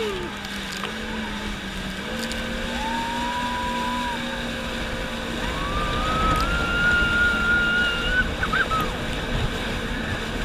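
Jet ski engine running at speed, its whine climbing in pitch a little past halfway and then holding, over the rush of wind and water.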